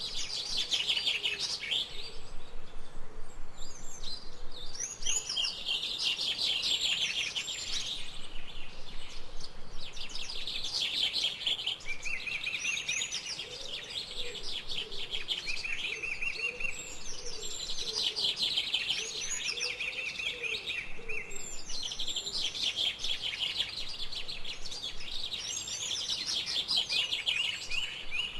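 Forest birdsong: several birds repeat high, trilling song phrases every few seconds, over a faint steady background hiss. Softer, lower calls join in the middle.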